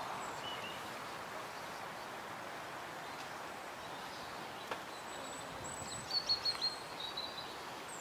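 A steady background rush of ambient noise, with a small bird giving a short run of high chirps and thin whistled notes about two-thirds of the way through.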